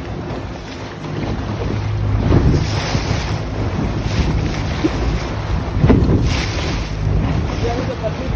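Water taxi's engine running steadily under way, with wind buffeting the microphone and surges of rushing water against the hull.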